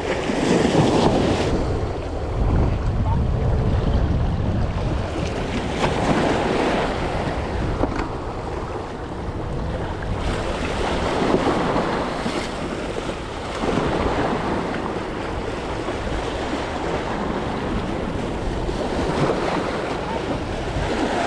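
Sea waves washing against the shore, swelling in surges every few seconds, with wind buffeting the microphone as a low rumble.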